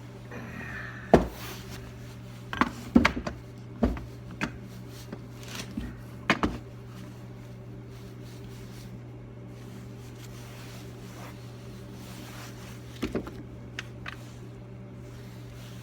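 Tools and metal parts being handled on a workbench while a clamp is found and set up: a string of sharp knocks and clatters through the first seven seconds and a couple more near the end, over a steady low hum.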